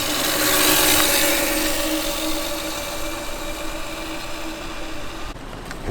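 Child's electric dirt bike running, its motor giving a steady hum over a rush of tyre and road noise that is loudest about a second in. The hiss cuts out shortly before the end.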